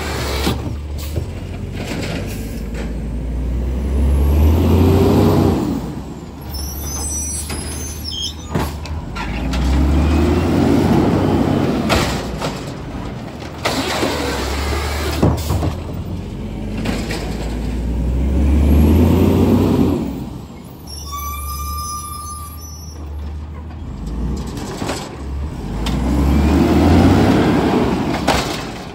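Garbage truck at work: its diesel engine revs up and drops back four times, about every seven to eight seconds, with sharp knocks and clanks in between.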